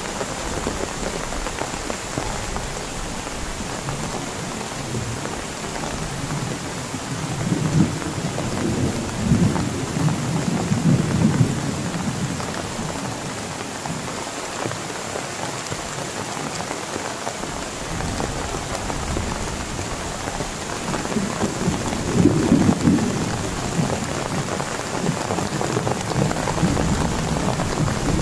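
Heavy rain falling steadily, with thunder rumbling low, once about seven seconds in and again a little past twenty seconds.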